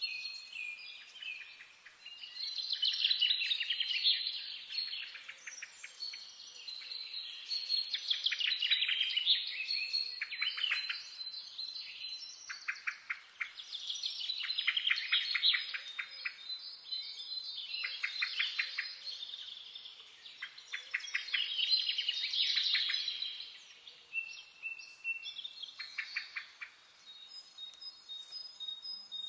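Birds chirping and twittering in quick runs of high chirps that swell and fade every few seconds.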